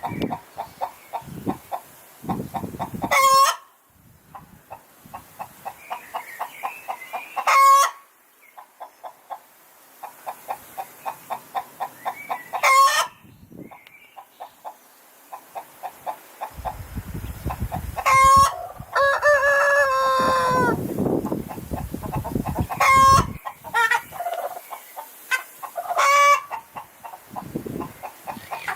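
Hens cackling: runs of quick clucks, about four or five a second, each building to a loud squawk every few seconds. This is the cackle hens give around egg-laying. About twenty seconds in, a rooster crows once, the call falling in pitch at its end.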